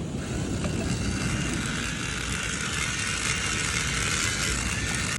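Marinated chicken tikka pieces sizzling steadily over hot charcoal, a continuous crackling hiss.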